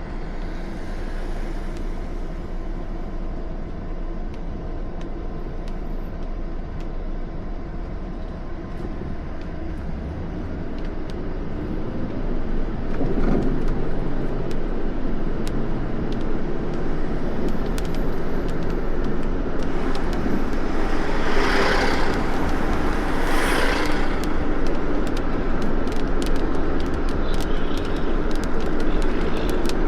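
Road noise of a car driving: a steady low rumble that gets louder about twelve seconds in, with two brief whooshing swells a little past the middle and many scattered sharp ticks in the second half.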